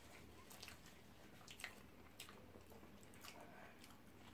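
Faint eating sounds from shawarma wraps being chewed and handled, with a few soft, separate clicks.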